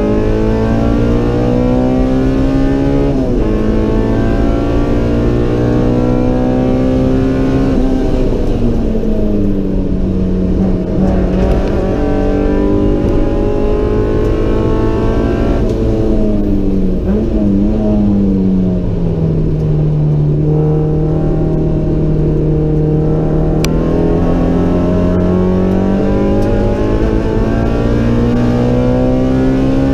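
In-cabin sound of a 1992 Honda Civic EG6's stroked 1943 cc B18C four-cylinder being driven hard on track. The revs climb and drop sharply at a gear change about three seconds in, fall away twice, and sit low for a few seconds. They then climb steadily for the last third.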